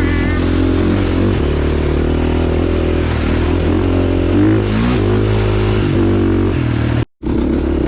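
Dirt bike engine running under load on a rocky climb, revs rising and falling as the rider works the throttle and shifts. The sound cuts out for a moment near the end.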